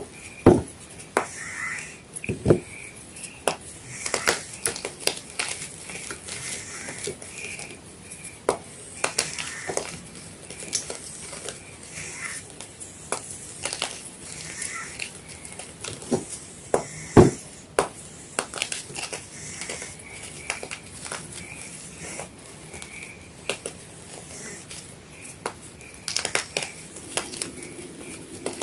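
White gym chalk being crunched and crumbled. It gives irregular crisp crunches and small crackles, with a few louder snaps, the sharpest about seventeen seconds in.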